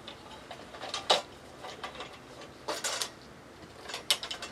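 Small metal lamp-socket parts clicking and clinking as they are handled, with a few sharp clicks about a second in, around three seconds and near the end.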